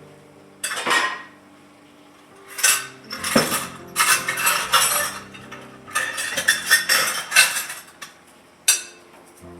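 Metal utensils clinking and clattering in several bursts, as of someone rummaging through cutlery for a set of measuring spoons.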